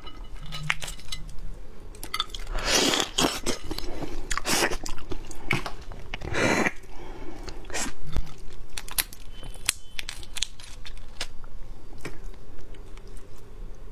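Close-miked eating of raw shrimp: wet chewing and biting with many small clicks from the shell being handled and peeled. There are several louder crunching bursts, the loudest about three and six and a half seconds in.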